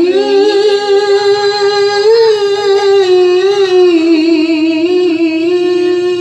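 A qori's solo voice singing one long drawn-out melismatic note of a sholawat, held near one pitch with small wavering turns and lifting briefly about two seconds in.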